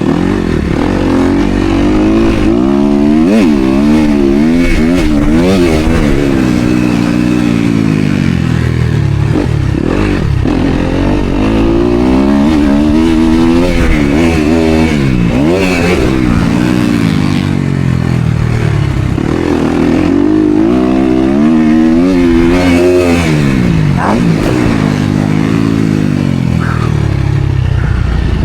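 Motocross bike engine racing: revs climb and drop again and again as the rider accelerates, shifts and rolls off around the track, with clattering from the bike.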